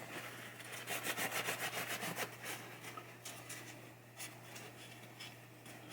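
Quick back-and-forth rubbing strokes as parts of a pinball pop bumper assembly are scrubbed clean by hand. The strokes come thickest in the first half, then turn sparser and fainter.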